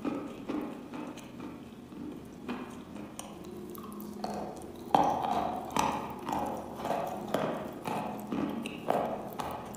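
Close-up chewing of a piece of wet, golden-baked edible chalk: moist crunching, a crunch about every half second, softer at first and louder from about halfway.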